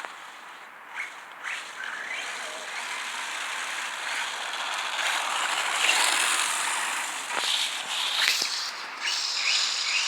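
Himoto EMXT-1 radio-controlled monster truck driving and drifting, its motor and tyres making a noisy hiss. The hiss swells and falls several times, with short squeaks, and is loudest past the middle.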